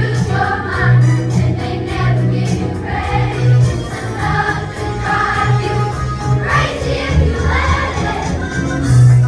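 Children's choir singing over a pop backing track with a pulsing bass line.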